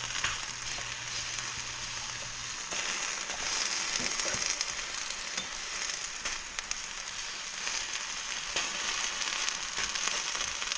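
Food frying in a hot pan: a steady sizzle of oil with scattered small crackles and pops.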